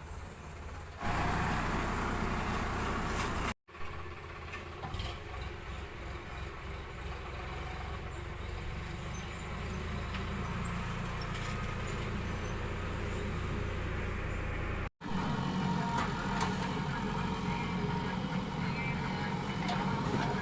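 Heavy machinery's engine running steadily. The sound jumps abruptly about a second in and drops out briefly near four and fifteen seconds, where the recording is cut.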